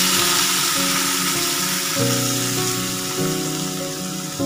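Water poured into a hot wok of oil-fried vegetables, hissing and sizzling on contact, the sizzle fading over a few seconds. Background music plays throughout.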